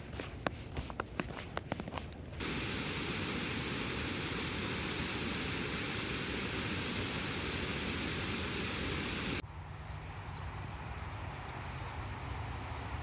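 Light taps and clicks, then an abrupt switch to a steady, even rushing noise, then an abrupt switch to a duller, lower steady rumble.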